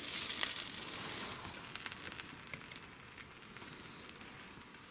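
Fat sizzling in a hot cast iron skillet where a bratwurst is frying on a wood stove, fading away over the first couple of seconds, with a few light clicks and ticks.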